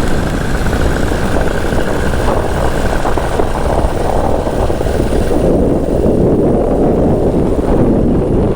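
Wind rushing over the microphone of a paraglider pilot in flight: a steady, loud, gusty roar. A faint high tone fades out about five and a half seconds in.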